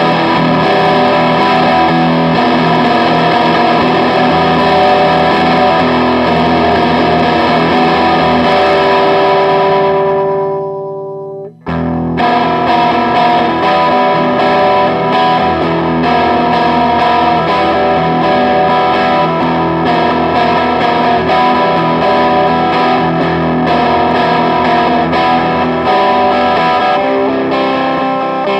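Electric guitar played through an overdrive/distortion pedal, strummed chords with a distorted tone. About ten seconds in a chord rings out and stops briefly, then the playing starts again.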